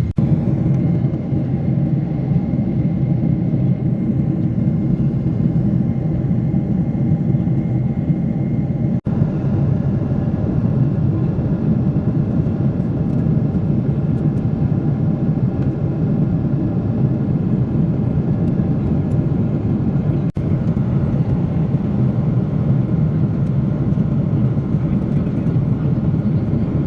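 Airliner cabin noise: a steady low rumble of jet engines and airflow heard from inside the passenger cabin, with faint steady tones. It cuts out for an instant twice.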